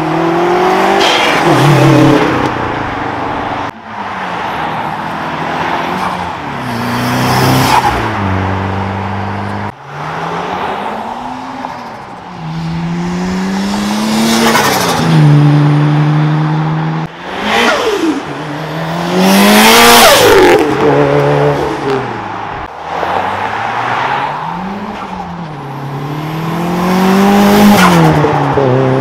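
Turbocharged cars, among them a Nissan Skyline R32 and a Nissan Silvia S15, accelerating hard past one after another. Each engine climbs in revs and drops at the gear change, and a burst of hiss comes with several of the shifts.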